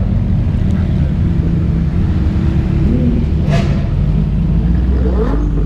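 Supercar engines running at low revs, a steady deep rumble, with a short sharp noise about three and a half seconds in.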